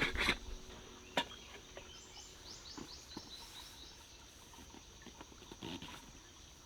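Quiet forest ambience: a bird sings a quick trill of repeated high notes about two seconds in, over a steady faint high-pitched tone. An acoustic guitar strum dies away at the very start.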